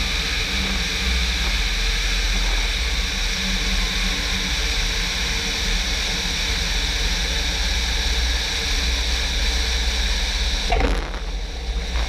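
Piper Cherokee's single piston engine and rushing airflow droning steadily in flight, a constant low hum under a hiss. A brief knock comes near the end, after which the hiss eases a little.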